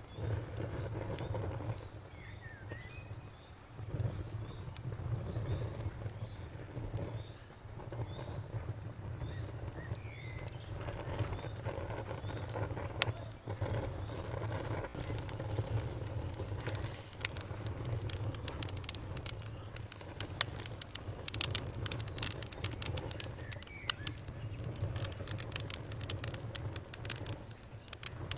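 Campfire crackling and popping over a low, steady rumble of flames, the pops coming thicker and sharper in the second half. An insect chirps in a fast, even pulse through the first half, and a bird gives a few short chirps.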